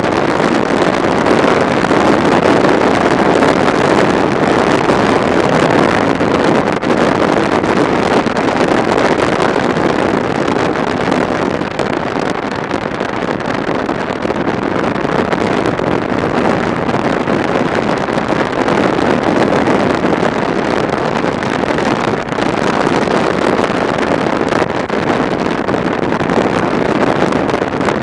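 Steady rush of wind noise over the microphone of a motorcycle riding at road speed, with small swells in level.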